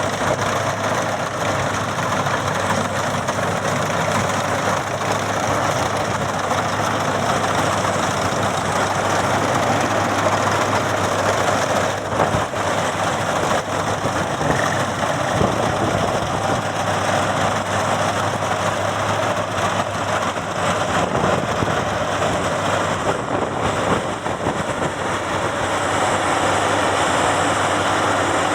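Maxxi Bimo 102 X Top combine harvester running steadily: a constant engine and machinery noise with a low hum underneath.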